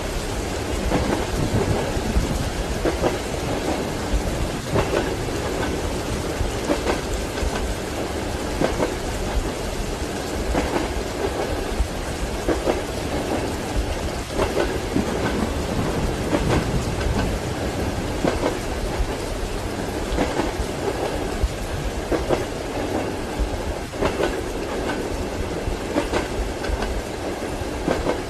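Ambient mix of a moving train's wheels clicking over rail joints with the steady rumble of the carriage, layered with rain and rolling thunder.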